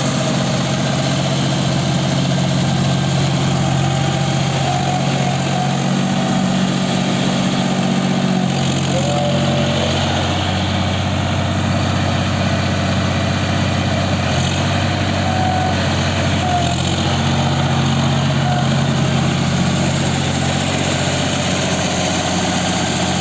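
John Deere 5050D tractor's three-cylinder diesel engine running steadily. Its note shifts slightly in pitch a few times.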